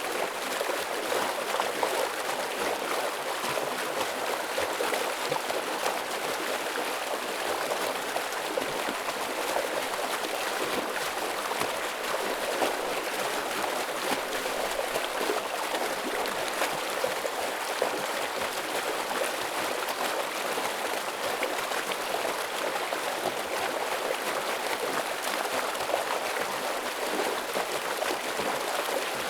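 Forest stream running over rocks: a steady, full rush of flowing water.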